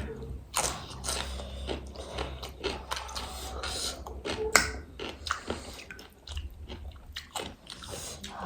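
Close-up eating sounds: crisp panipuri shells and chatpate crunching as they are bitten and chewed, in irregular crackles with one sharper crunch about halfway through.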